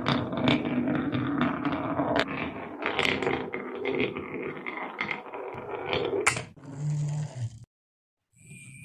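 Marbles rolling and clattering down a marble run track: a dense stream of rapid clicks and rattles. About six and a half seconds in, after a sharp click, it changes to a shorter, smoother sound that stops, and a brief sound starts again near the end.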